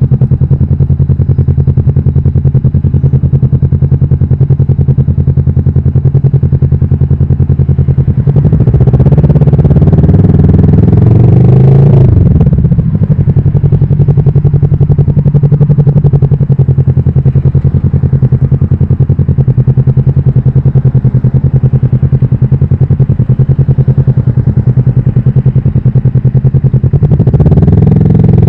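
Kawasaki Vulcan S's 649 cc parallel-twin engine running steadily under way. About eight seconds in it revs up, rising in pitch for about four seconds before dropping back sharply. It holds steady again and starts rising once more near the end.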